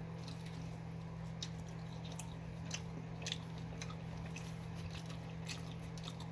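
Close-up chewing of pizza, with scattered faint wet mouth clicks, over a steady low hum.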